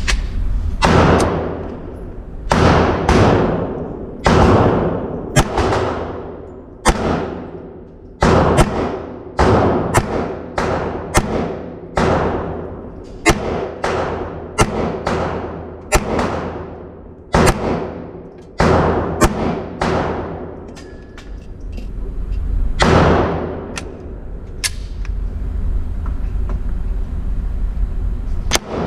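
9mm handgun fired shot by shot, about twenty shots roughly a second apart, each ringing out in a long echoing tail. The shots pause for a few seconds about three-quarters of the way through, then one more shot comes near the end.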